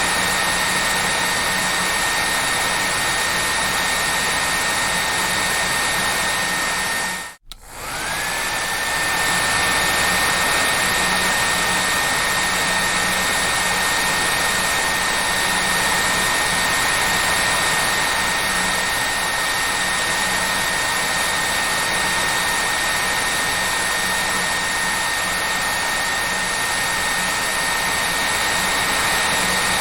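Hair dryer running with a steady rush of air and a high motor whine. About seven seconds in it cuts out for a moment, then comes back with its whine rising back up to pitch.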